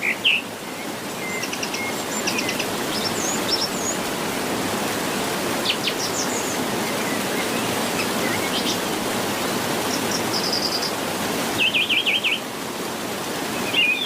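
Small birds chirping and calling in short, scattered phrases over a steady, even rushing noise, with a quick run of rapid chirps about twelve seconds in.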